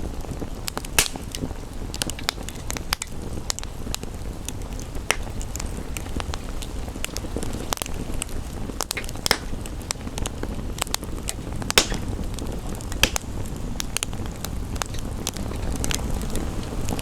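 Wood fire crackling in a fireplace, with irregular sharp pops, a few of them louder, over a steady rush of gentle rain.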